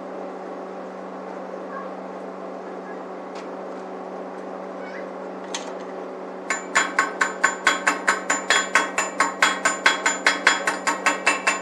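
A hammer striking metal in a fast, even run, about six blows a second, starting about halfway through, over a steady electrical hum.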